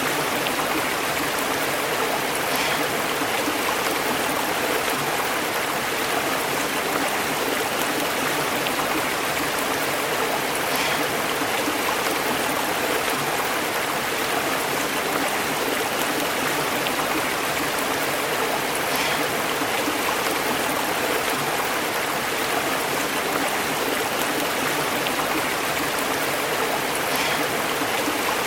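Stream water flowing and burbling over rocks, a steady rushing wash with occasional small splashes.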